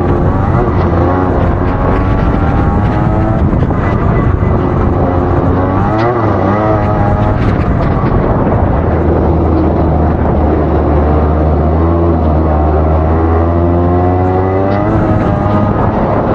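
Rotax 125cc two-stroke single-cylinder kart engine running hard through a lap, its pitch repeatedly rising under acceleration and dropping as it slows. It climbs early on, dips around four seconds in, rises again, falls to a lower steady note in the middle, then climbs steadily near the end.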